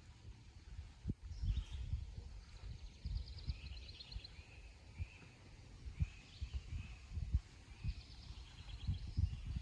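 Songbirds singing and chirping in the background, with short chirps and quick trills coming and going. Over them, uneven low rumbling bumps on the microphone are the loudest sound.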